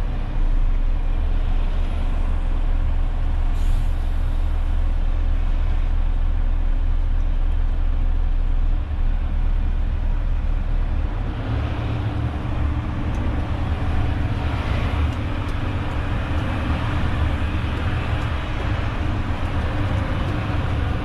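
Renault truck's diesel engine running with a steady low rumble, with a short air hiss about three and a half seconds in. The engine note changes and grows fuller about eleven seconds in, as under acceleration.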